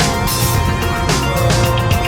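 Music playing from a car stereo, with held notes over a steady beat.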